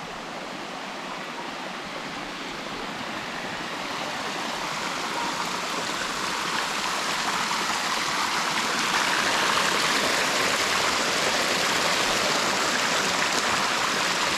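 Waterfall water rushing and splashing over rocks, a steady rush that grows louder over the first nine seconds or so and then holds.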